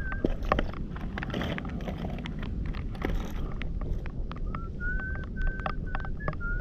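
Clicks and scrapes of stones and debris being searched through in river mud. Short, steady high-pitched tones come in a quick series near the start and again over the last two seconds.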